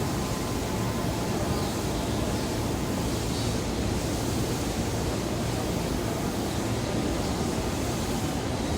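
Steady roar of a busy railway station platform: an even rumble and hiss with no distinct events.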